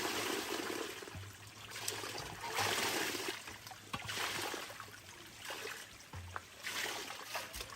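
Water trickling and splashing in uneven surges, with a few small clicks.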